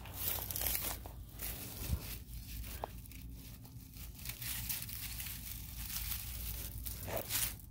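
Garlic bulbs being pulled out of the soil: roots tearing loose and dead garlic tops rustling, in scratchy bursts, loudest near the start and near the end.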